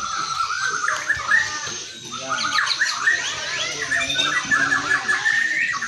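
White-rumped shama (murai Barito) singing: a rapid, varied run of overlapping whistles and chirps.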